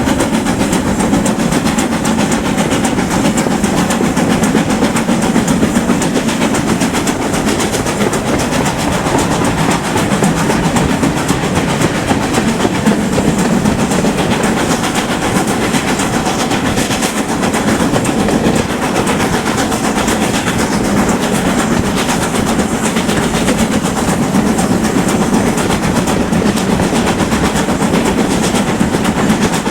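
Steam-hauled train running on rails: a steady rumble of wheels on the track, with a continuous clickety-clack.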